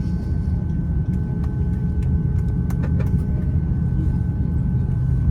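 Steady low rumble of an Airbus A350-900 taxiing, heard inside the economy cabin, with a thin steady hum and a few light cabin rattles about three seconds in.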